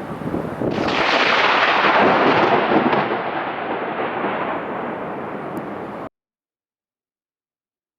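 Thunder: a rumble already going, then a sudden loud crack about a second in that rolls on as a rumble and slowly fades. The sound cuts off abruptly about six seconds in, leaving dead silence.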